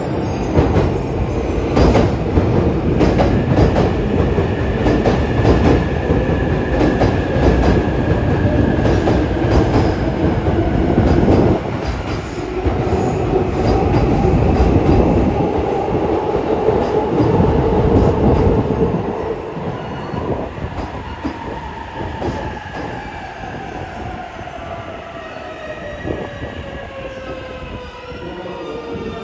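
Electric commuter train running past at a platform: a heavy rumble with wheels clattering over rail joints and a thin motor whine. The rumble eases after about twenty seconds, and the whine falls steadily in pitch toward the end as the train slows.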